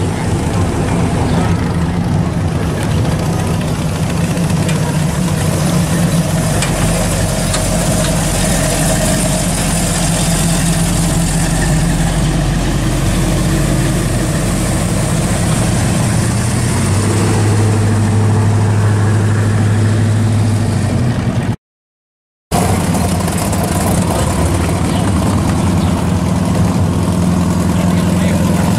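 Classic and muscle car engines idling and rolling slowly past one after another, a steady low exhaust rumble. The sound drops out completely for about a second near the end.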